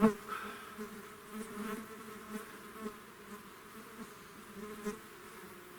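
Flying insects buzzing steadily, a droning hum. A sharp snap right at the start and softer irregular crunches of footsteps through brush.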